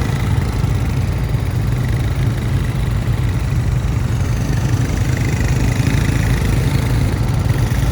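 A vehicle engine running steadily at low revs, with a fast, even low throb.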